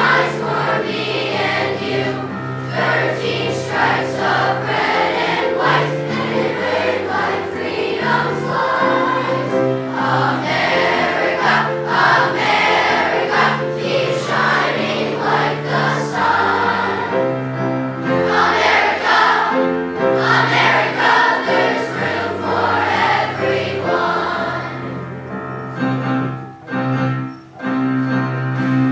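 Children's choir singing with instrumental accompaniment, sustained low notes under the voices. The music briefly dips near the end before the voices come back in.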